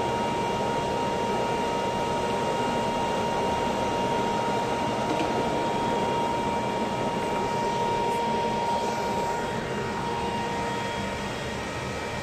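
Shooting range ventilation running: a steady rushing noise with a thin, even whine held throughout, and no gunshots.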